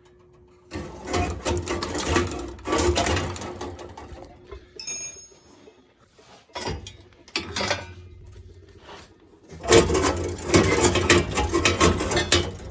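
Metal tools and boiler parts clattering and scraping in irregular bursts during hands-on boiler work, with a short metallic ring about five seconds in.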